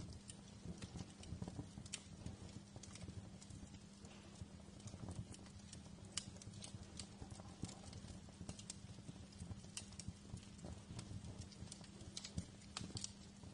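Wood fire in a fireplace crackling: irregular small pops and snaps, a few louder than the rest, over a steady low background.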